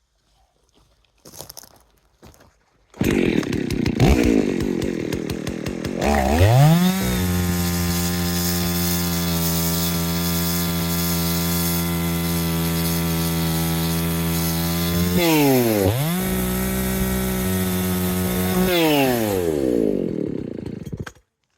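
Gas chainsaw running: rough and low at first, then revved up to a steady high-pitched full throttle. The pitch drops and climbs back once about two-thirds of the way through, then winds down and cuts off near the end.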